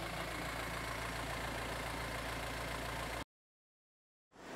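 SUV engine idling steadily. It cuts off abruptly about three seconds in to a second of dead silence, and engine sound fades back up near the end.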